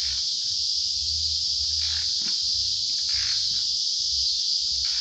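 Steady, high-pitched chorus of insects buzzing without a break, over a faint low rumble.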